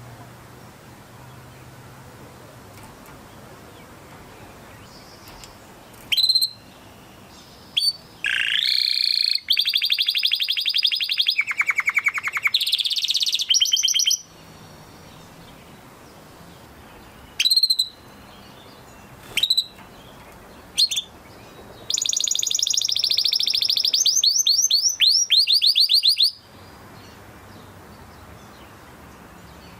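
Canary singing: a few short single chirps and two long song phrases of fast, high trills, separated by pauses.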